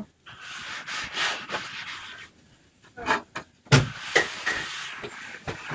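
Rubbing and scraping close to the microphone for about two seconds, then a few knocks, the loudest about three and a half seconds in. This is typical of a phone being handled and moved about.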